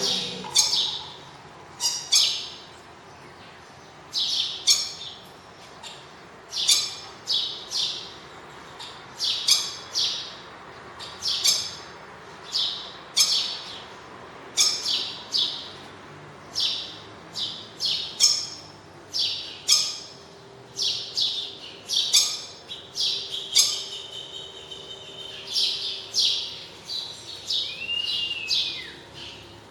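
Birds chirping and squawking, short high calls repeating about once or twice a second; near the end one call rises and then falls in pitch.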